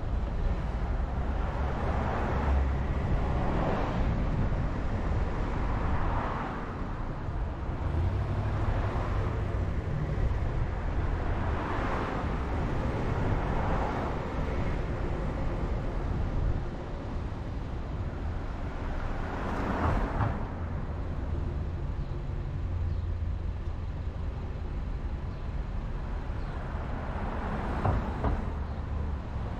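Car driving along a road: a steady low rumble of engine and road noise, with swells of tyre and traffic noise every few seconds.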